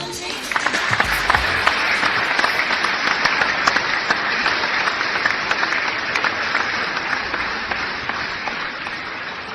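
Audience applauding, building over the first couple of seconds and fading near the end.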